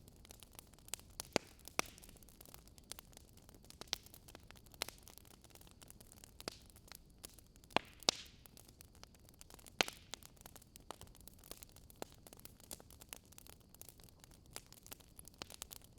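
Wood fire crackling, with irregular sharp pops and snaps over a faint, low hiss.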